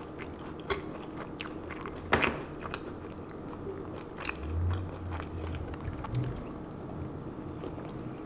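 Close-miked chewing of Mexican fast food, with scattered small crunchy clicks and a sharper one about two seconds in.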